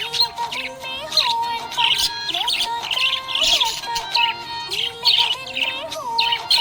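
Budgerigar chirping in quick, repeated bursts of high twitters, over a melodic music track.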